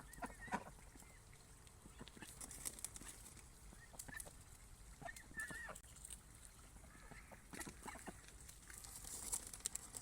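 Faint, scattered short calls from waterfowl, one near the start and a couple about five seconds in, among light clicking and rustling.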